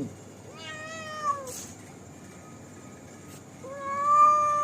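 Domestic cat meowing twice: a shorter meow about half a second in, then a longer, louder one near the end.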